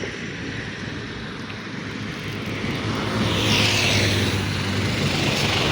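A road vehicle passing close by: engine hum and tyre noise growing louder over the second half as it approaches.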